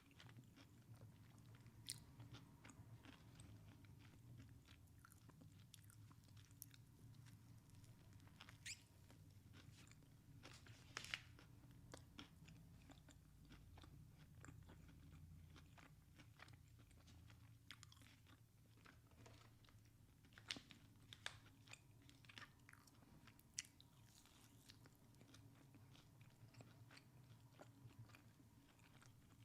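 A person chewing and biting crunchy Chick-fil-A food close to the microphone, with frequent sharp crunches and wet clicks, the strongest about eleven seconds in and again around twenty seconds in. A faint steady low hum runs underneath.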